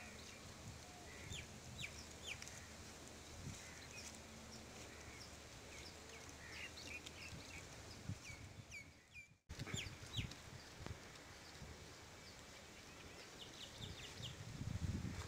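Faint birds calling: many short, high chirps scattered throughout, over a few soft low thumps. The sound drops out completely for a moment a little past halfway.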